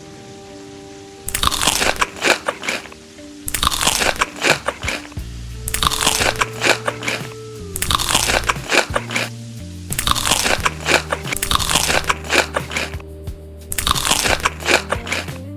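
A person chewing crunchy food close to the microphone, in about six loud bouts of crunching a second or two apart, over quiet background music.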